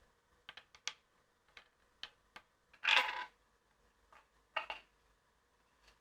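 A series of light clicks and knocks from small hard objects being handled, with one louder rattling clatter about three seconds in.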